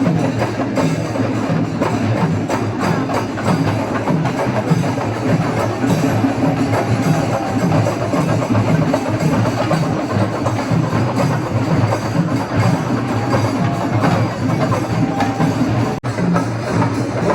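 Loud percussion music with rapid, dense drumming; it breaks off for an instant near the end.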